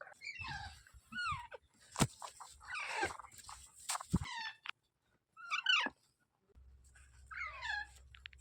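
Young rose-ringed parakeets calling: a string of short, harsh calls that slide down in pitch, coming in clusters, with two sharp clicks in between.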